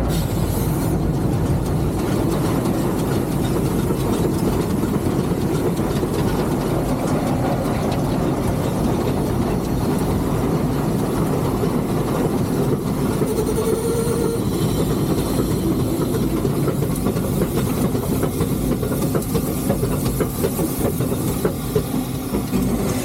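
Steady mechanical noise of a three-truck Shay geared steam locomotive, heard from inside its cab.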